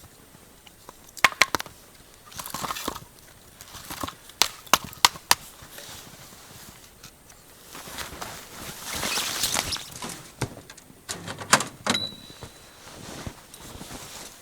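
Firewood and kindling being handled to light a bonfire: scattered sharp snaps and knocks of wood, with a stretch of rustling in the middle.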